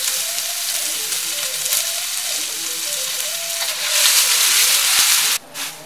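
Pounded spice paste and lemongrass frying in hot oil in a steel wok, a loud steady sizzle as it is turned with a spatula. The sizzle grows louder about four seconds in and cuts off suddenly near the end.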